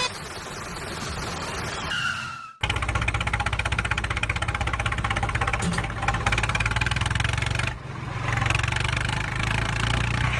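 Tractor engine running with a fast, even pulse over a steady low hum, coming in abruptly about two and a half seconds in after a short noisy stretch with a falling whine.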